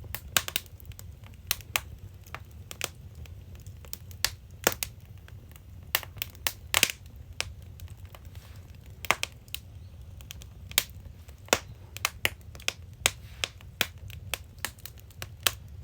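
Wood fire crackling: irregular sharp pops and snaps, some much louder than others, over a low steady rumble.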